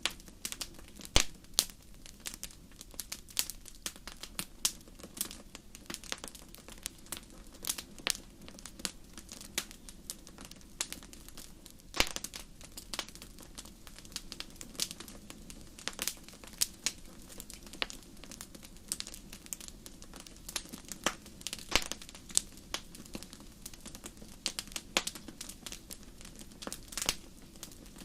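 Wood fire crackling in a fireplace: frequent irregular sharp pops and snaps over a soft steady rush of flame.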